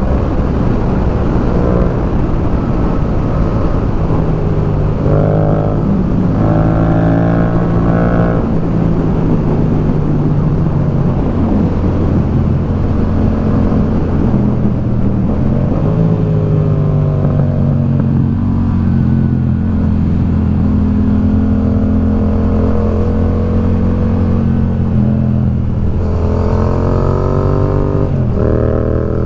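Motorcycle engine running at road speed under a steady rush of wind, its pitch rising with the throttle and dropping back at gear changes several times, with a sharper rise near the end.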